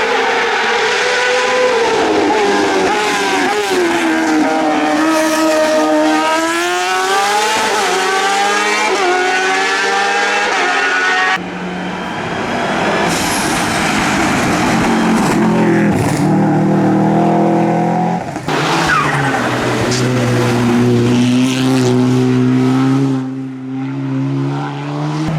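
Hillclimb race cars' engines revving hard and changing up through the gears as they accelerate past, the pitch climbing and dropping with each shift. The sound switches abruptly to a different car twice, about 11 and 18 seconds in.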